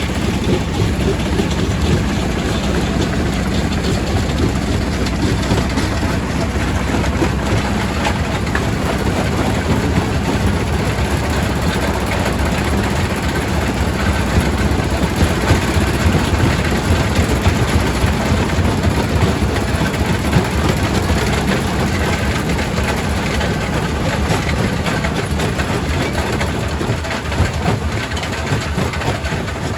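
Primary rock crusher running under load: a steady heavy mechanical drone with dense cracking and grinding of stone being broken.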